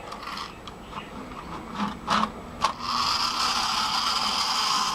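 Small electric motor and gears of a Danbury Mint Peanuts Christmas Wonderland toy train running on its track. It grinds in short, stop-start bursts for about three seconds, then settles into a steady whir. The motor runs slowly, which the owner puts down to it having seized up a little.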